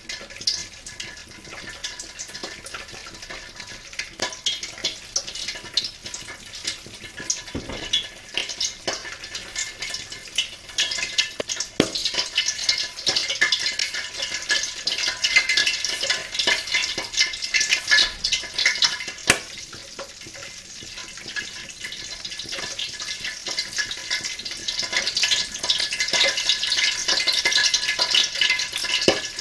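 Raw peanuts frying in a little oil in a wok over low heat: a dense, fine crackling sizzle that grows louder about halfway through, eases briefly, then builds again near the end.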